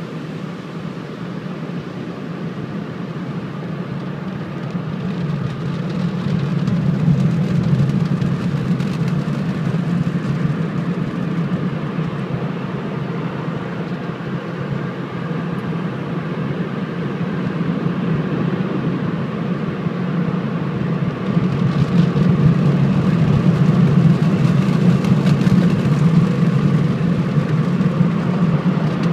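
Steady low mechanical drone with a rushing noise over it, growing louder about six seconds in and again about twenty-one seconds in.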